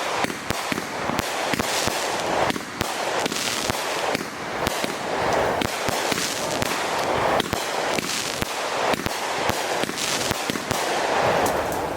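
Consumer fireworks going off in quick succession: a dense run of sharp pops and bangs over a constant crackling hiss.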